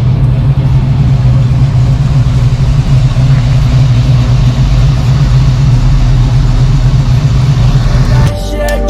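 A motor vehicle's engine running steadily with a loud low drone. Music cuts in near the end.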